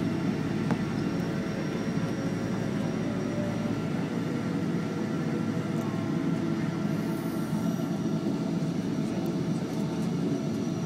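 Cabin noise of a Boeing 777 airliner rolling on the ground after landing: a steady low rumble of the engines at low power and the air system, with a few faint steady tones.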